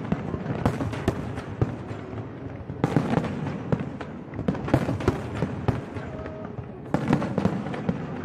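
Aerial fireworks display: shells bursting in rapid runs of bangs and crackles, with short lulls between the volleys.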